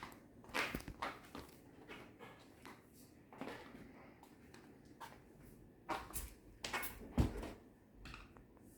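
Scattered soft knocks and clicks at uneven intervals, the loudest a low thump about seven seconds in.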